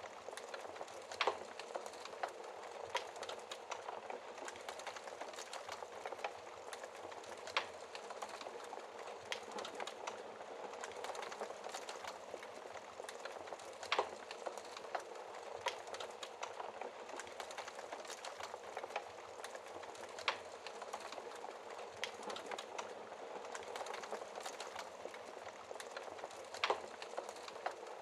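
Wood fire burning in a fireplace: a steady hiss of flames full of small crackles, with a louder pop from the burning logs every few seconds.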